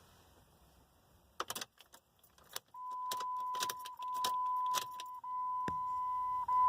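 Car keys jangling and clicking as the ignition key of a 2004 Jeep Grand Cherokee is turned back and forth to call up the trouble codes. About three seconds in, a steady high dashboard chime starts, breaking off briefly about every second and a quarter while the keys keep jangling.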